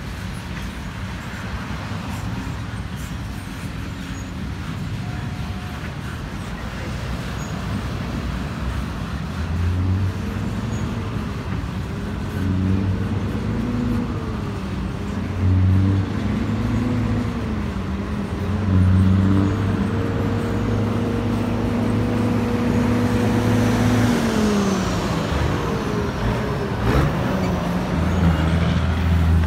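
Double-stack intermodal freight train rolling past, a steady rumble of wheels on rail. Road traffic passes in front of it: through the middle an engine rises and falls in pitch several times as it goes through its gears, and another engine hums near the end.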